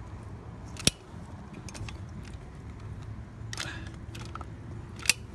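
Two sharp clicks about four seconds apart from a caulking gun pumping roof cement out of its tube, with faint scraping between them.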